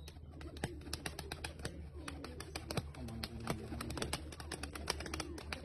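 Domestic pigeons cooing in low, wavering calls, over a steady low hum and many quick clicks.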